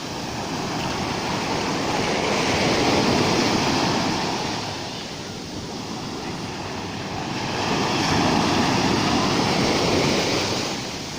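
Rough sea surf: waves breaking and washing ashore, the rushing noise swelling twice, about two seconds in and again about seven seconds in.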